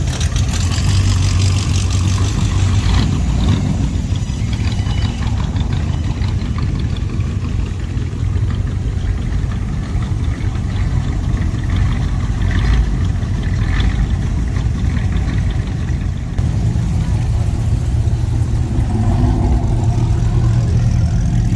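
A car engine running close by, a steady low rumble.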